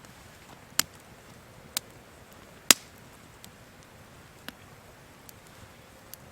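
Wood campfire crackling: scattered sharp pops over a faint steady hiss, the loudest about three seconds in.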